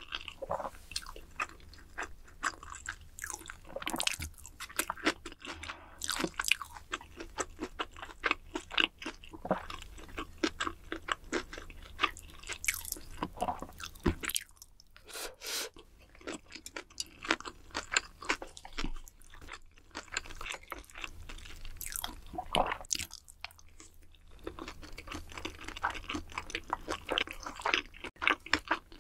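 Close-miked eating sounds of a person chewing food, a dense run of short crisp clicks and wet mouth sounds, with a couple of brief pauses.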